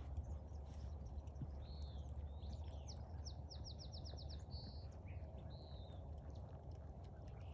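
Songbirds calling: a few short arched chirps and, about three seconds in, a quick trill of about eight notes. A steady low rumble lies underneath.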